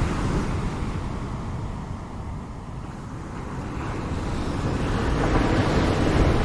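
Ocean surf. One wave's wash dies away over the first couple of seconds, then the next wave swells and breaks near the end, with a deep rumble underneath.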